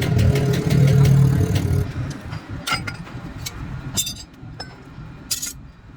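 A motor running steadily with a low hum, fading out about two seconds in, followed by a few scattered sharp knocks.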